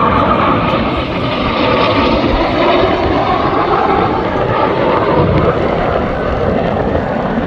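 A fixed-wing aircraft flying past, its engine noise loud and steady.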